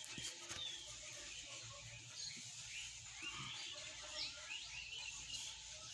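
Many birds chirping, short quick calls overlapping, with a few faint clicks.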